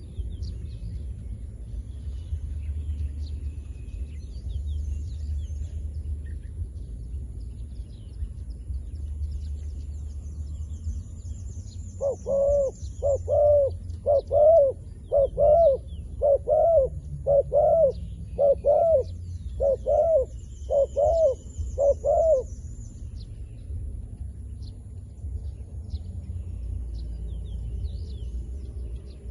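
Zebra dove cooing: a run of about eleven cooing notes, roughly one a second, starting about twelve seconds in and lasting about ten seconds. Faint high chirps and a steady low rumble sit underneath.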